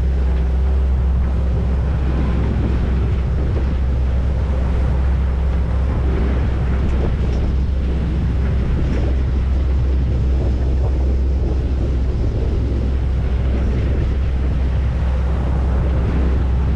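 Volvo Penta D3 110 hp marine diesel running steadily at about 2,600 RPM, pushing the yacht under power, with wind buffeting the microphone and water rushing past the hull.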